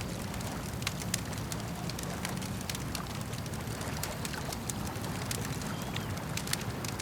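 Campfire crackling, with irregular sharp pops and snaps over a steady low wash of lake water.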